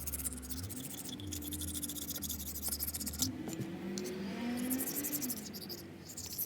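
Razor blade scraping old head-gasket material off the deck of an aluminium cylinder head, in repeated quick strokes with a short pause about halfway through. The blade runs smoothly without catching.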